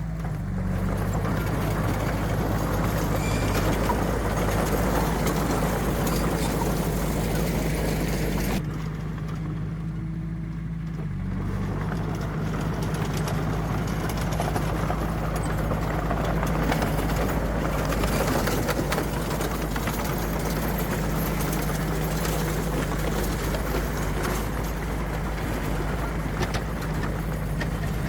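Heavy diesel earthmoving machinery running steadily, with a louder rough working noise over the engine that drops away for about three seconds midway and then comes back.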